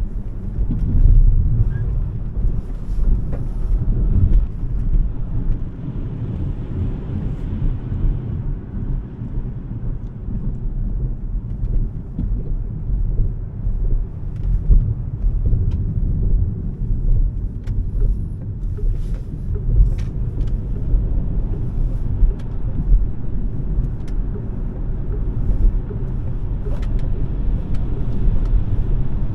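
Smart #3 electric car on the move: a steady low rumble of tyres and road noise, rising and falling with the drive.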